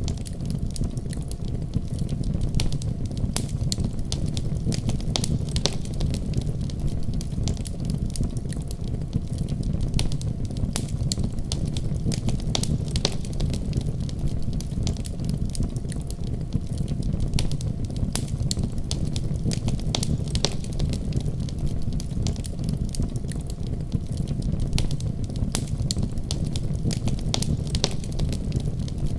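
Wood fire crackling: frequent sharp pops and snaps at irregular intervals over a steady low rumble of burning flames.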